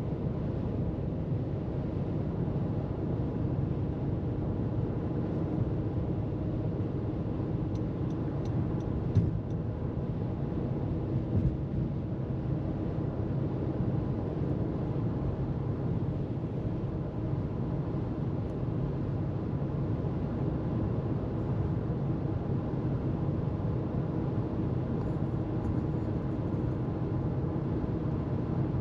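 Car driving at freeway speed: a steady drone of tyre and engine noise. Two brief bumps break it about nine and eleven and a half seconds in.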